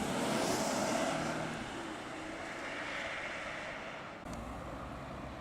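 An Audi car driving past. Its engine and tyre noise swell to a peak about a second in and then fade.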